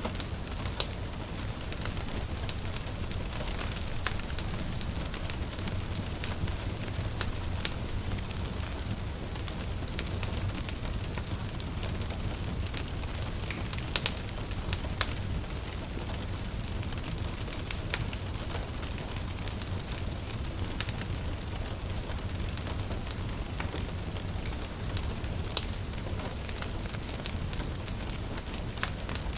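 Wood fire crackling in a fireplace, with irregular sharp pops over a steady low rumble, mixed with gentle rain pattering.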